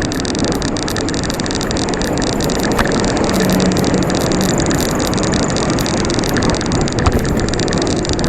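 Steady road traffic noise, with motor vehicle engines running.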